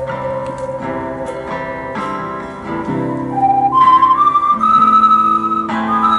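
Ocarina playing a slow, held melody that steps up to a higher register about four seconds in, over plucked guitar chords.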